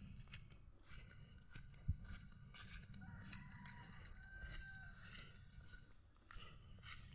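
Faint countryside ambience: a steady high insect drone with a low rumble underneath, and a few faint short whistles near the middle.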